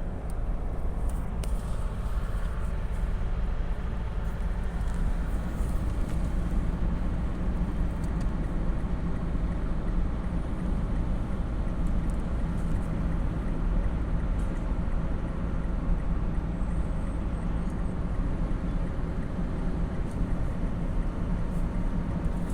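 A vehicle running steadily: a continuous low rumble with a steady hum, and a few faint ticks scattered through it.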